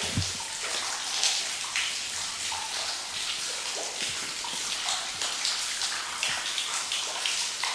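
Water dripping and splashing in a steady patter, with irregular single drops plinking throughout.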